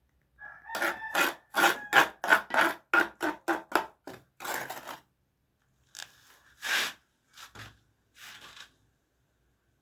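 Rasping hand-tool strokes on the plastic water pipe, quick and even at about three a second, then slowing to a few scattered strokes in the second half.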